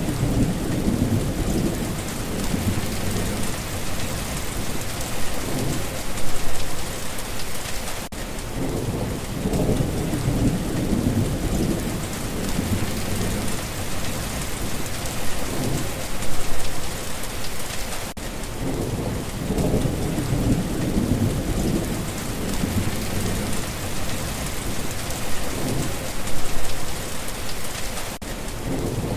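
Steady rain falling, with low rolling rumbles of thunder swelling and fading several times.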